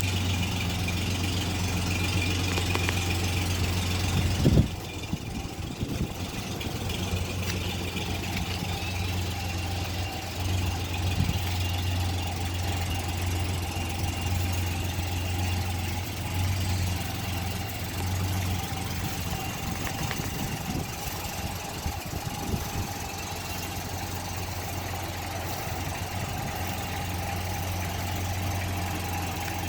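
1953 engine running at a steady idle just after a cold start, with one sharp bang about four and a half seconds in.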